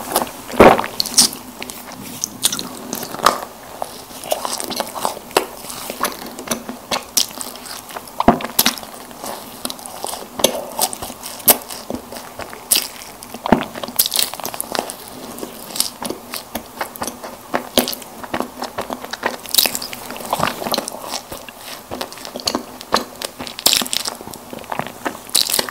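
Close-miked eating of soft packaged snack cakes: biting and chewing with many short, sharp mouth clicks at irregular intervals.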